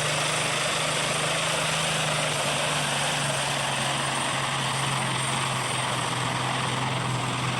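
Super stock pulling tractor's turbocharged diesel engine running hard and steadily, its pitch dipping slightly about three seconds in, with a faint high whine over the engine noise.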